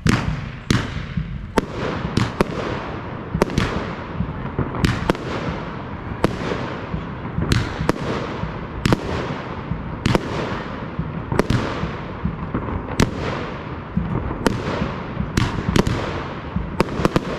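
Fireworks display: a steady run of sharp aerial shell bursts, about one to two a second, each trailing off in a fading hiss, over a constant background of crackle.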